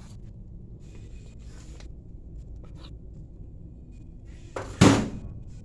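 A single loud knock about five seconds in, over a low steady hum with faint rustling.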